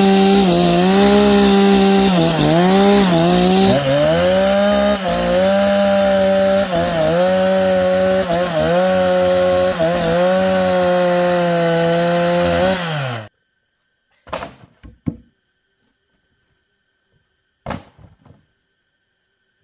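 Two-stroke chainsaw cutting through a large log at full throttle, its pitch dipping again and again as the chain bites into the wood and recovering. It stops abruptly about two-thirds of the way through, followed by a few sharp knocks.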